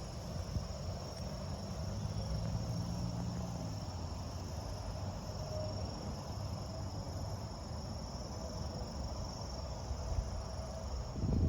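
Wind buffeting the phone's microphone as a low rumble, which grows sharply stronger near the end, with a steady high-pitched insect song behind it.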